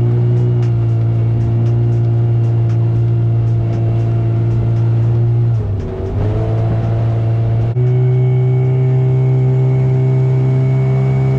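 Outboard motor of a small aluminium fishing boat running under way at a steady pitch. About six seconds in the engine note dips and wavers, then near eight seconds in it steps up to a slightly higher steady pitch.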